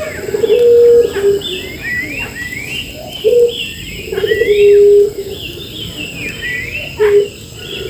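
Several birds calling together: a dove or pigeon cooing in loud, steady, low notes about half a second long, repeated several times, over a stream of short rising whistled notes from songbirds.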